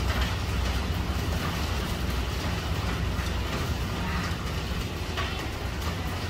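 Heavy rain pouring onto a tiled roof: a dense steady hiss with a low rumble underneath.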